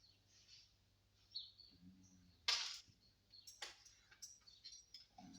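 Faint bird chirps over a low steady hum, broken by a few short sharp knocks or scrapes; the loudest comes about two and a half seconds in.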